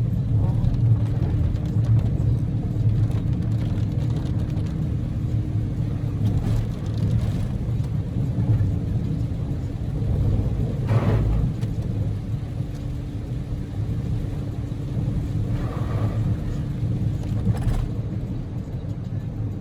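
Daihatsu Move (L150S) driving: a steady low rumble of engine and road noise inside the cabin, with a faint steady hum.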